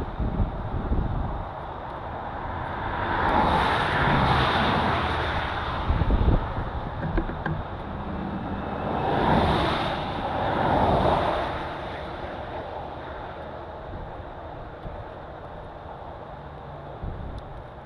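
Road vehicles going by with a low steady rumble. Twice a vehicle passes, each time swelling and fading over a couple of seconds, with a brief gust of wind on the microphone between the passes.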